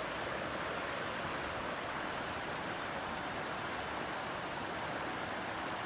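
Rushing floodwater of a swollen river: a steady, even rush.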